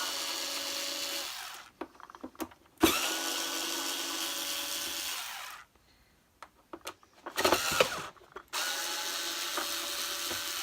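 Cordless electric screwdriver running in three steady bursts of one to three seconds each, backing the screws out of a vacuum cleaner's sole plate. Small clicks and knocks of handling come between the runs, loudest just before the last one.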